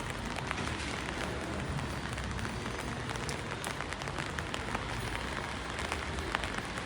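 Steady rain falling on the street, a continuous hiss with many close, separate drop ticks throughout.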